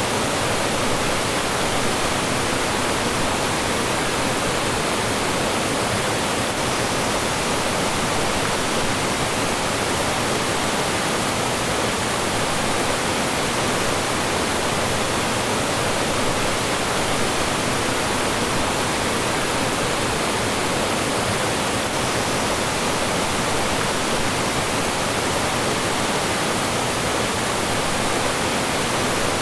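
Mountain stream flowing and falling over rocks: a steady, even rush of water.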